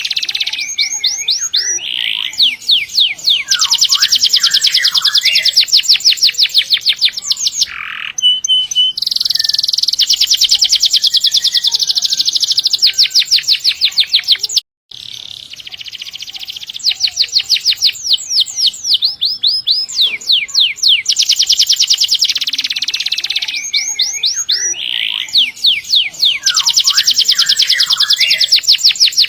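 Domestic canary singing a long song of very fast trills and rolls, high-pitched and loud, with sweeping phrases between the rolls. The song cuts out for a moment about halfway through and then carries on.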